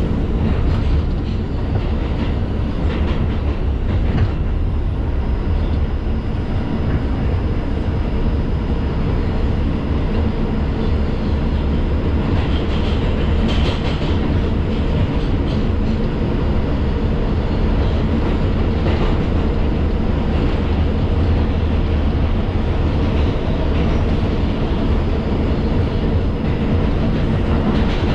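Interior of an R142 subway car on the 5 express running at speed through the tunnel: a steady, loud low rumble of wheels and running gear, with scattered clicks from the rails.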